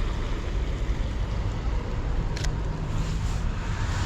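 Steady low rumble of city street traffic, with one short sharp click about two and a half seconds in.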